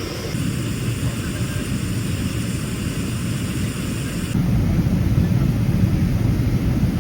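Steady rumble of a Boeing 777-300ER airliner cabin, the jet engines and airflow heard from inside. It gets louder about four seconds in.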